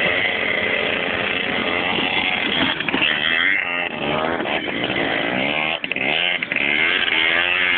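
Motocross motorcycle engines running hard with a high, buzzing note. From about three seconds in the pitch climbs and drops again and again as the throttle is worked.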